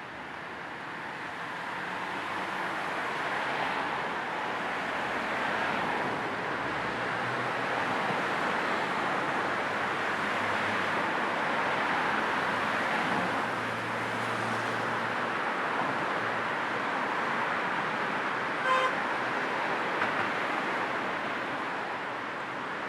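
Steady road and tyre noise of a car on the move, blended with a low white-noise hiss, with a short car horn toot about three-quarters of the way through.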